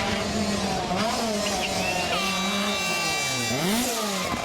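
Rally car engine running hard, its note dipping and then sweeping sharply back up late on as the driver lifts and gets back on the throttle. A steady, high horn-like tone sounds for about a second and a half in the middle.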